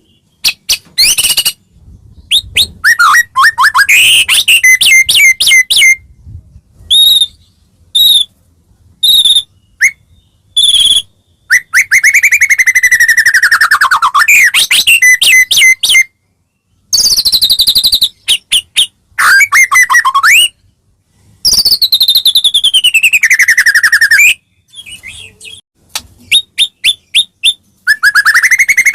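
White-rumped shama (murai batu, Medan type) in full, vigorous song: loud phrases of clear whistles, rapid repeated notes and long sweeping slides, with short pauses between phrases.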